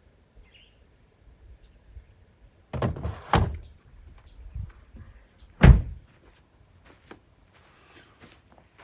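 Truck doors being shut: two quick thuds about three seconds in, then a louder thud near six seconds, with a few light clicks and knocks around them.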